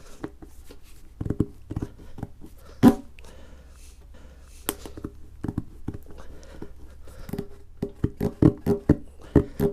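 A tool is worked in and out of a puncture hole in a tyre to enlarge it for a sticky-straw plug. It makes a series of short knocks and scrapes, the loudest about three seconds in, and near the end quickens to about three strokes a second.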